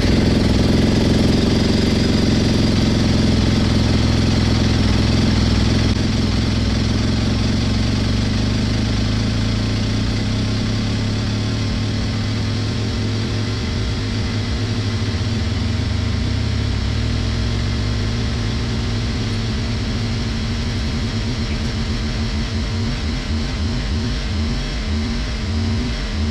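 2021 Sherco 300 SEF Factory's single-cylinder four-stroke engine idling steadily just after being started cold, warming the oil up for an oil change. The running turns a little softer and more uneven after a few seconds.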